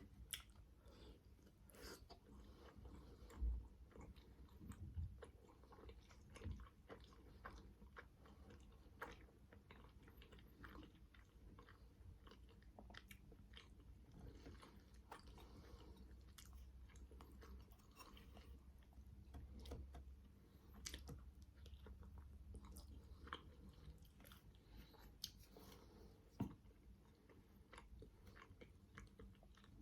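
Close-miked chewing and biting of manti, steamed meat dumplings: soft, wet mouth sounds with many small clicks and a few sharper ones, fairly quiet throughout.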